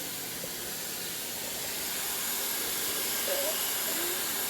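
A steady hiss at an even level, with a faint voice about three seconds in.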